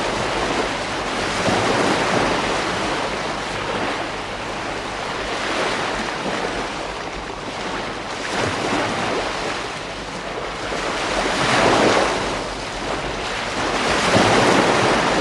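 Ocean waves breaking on a beach, a continuous surf wash that swells and eases every few seconds, with wind on the microphone.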